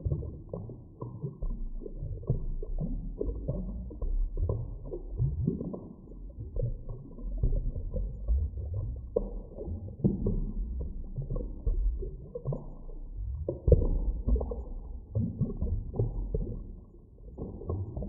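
Deep-water underwater ambience: a low, irregular rumble that swells and fades, with many short knocks, and a sharp jolt a little before three-quarters of the way through.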